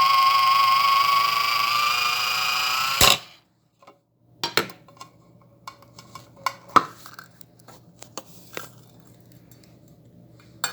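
Tornado F4 hands-free electric can opener's motor whining steadily, cutting off with a sharp click about three seconds in. After that come scattered light metallic clinks and taps.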